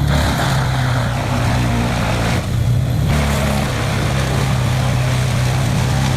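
Large diesel wood chipper running steadily at working speed: a constant low engine drone under a dense noise of wood going through, which thins out briefly about two and a half seconds in.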